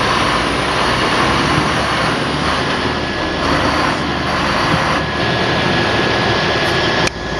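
Heavy vehicle engine running steadily under a dense, even mechanical noise, with a brief break about seven seconds in.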